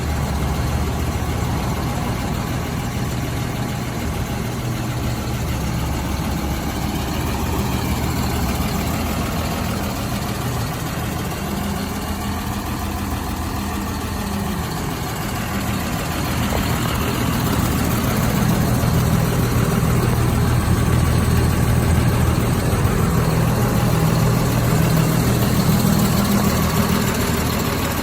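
CLAAS Arion 630 tractor's diesel engine idling steadily, getting somewhat louder about two-thirds of the way through.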